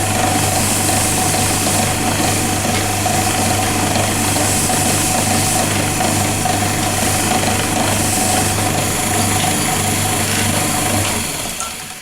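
Wood lathe motor running steadily, then switched off and winding down near the end.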